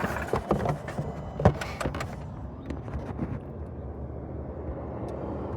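A 2012 Hyundai Elantra engine being switched off: a few knocks and clunks in the first two seconds, then the running noise dies away and only a low hum is left.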